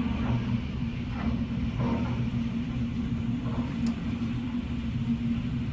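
A steady low rumble with a constant low hum underneath, unchanging throughout.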